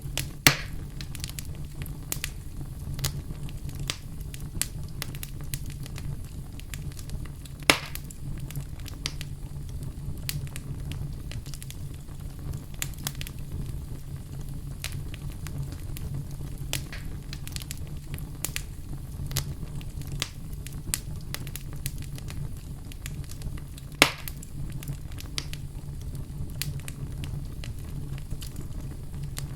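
Wood fire burning in a fireplace: a steady low rumble with constant small crackles, and three loud sharp pops, one just after the start, one about a third of the way in and one near the end.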